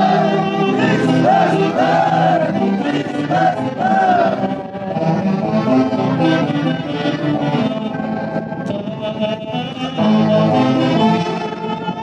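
Live music from an Andean festival orchestra with saxophones, playing a melody over a steady low accompaniment, a little quieter from about halfway through.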